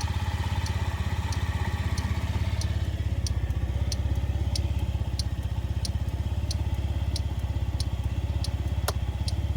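Honda Dio Z4 50cc scooter engine idling steadily, with a light tick about every half second and one sharp click near the end.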